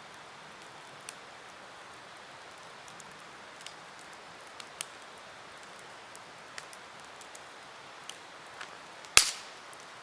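Campfire crackling: scattered small snaps and ticks over a steady hiss, with one loud sharp pop near the end.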